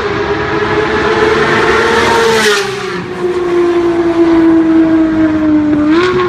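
Porsche 991 GT3's naturally aspirated flat-six running at high revs through an FI Exhaust. Its pitch holds high, sinks gradually from about halfway, then rises sharply again near the end.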